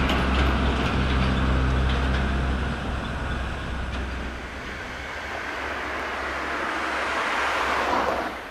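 Shinkansen train running by: a low rumble and hum that fades over the first few seconds, then a rushing noise that swells and cuts off suddenly near the end.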